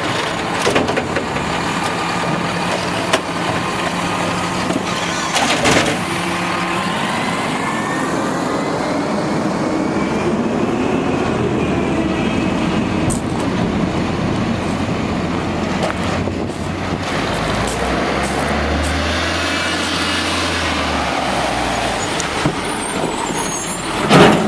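Automated side-load garbage truck running, with a few knocks early on and rising whines around the middle. A low rumble swells and fades toward the end, followed by a short, loud burst of noise.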